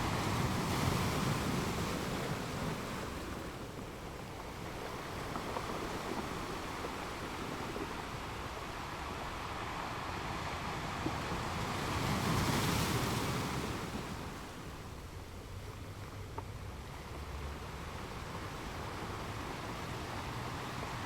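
Ocean waves washing onto a shore, a steady rushing surf with two swells, the larger about twelve seconds in.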